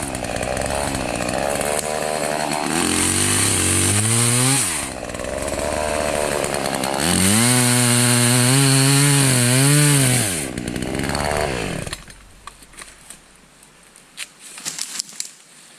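Two-stroke chainsaw revving up and cutting in two long runs, each time dropping back down in pitch. It winds down about twelve seconds in, leaving a few light snaps and rustles.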